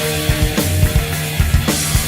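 Metal band playing: a drum kit with rapid bass drum strokes under sustained, held notes.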